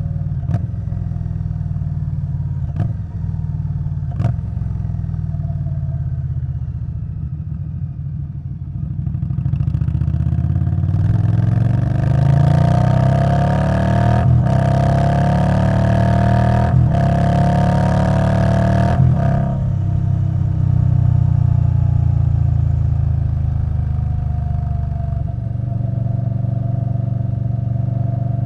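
Indian Scout Bobber Twenty's V-twin engine through a Vance & Hines Twin Slash exhaust, heard while riding. It runs steadily at first. About ten seconds in it accelerates, climbing in pitch through several upshifts, each marked by a brief break. Then it settles back to a steady cruise.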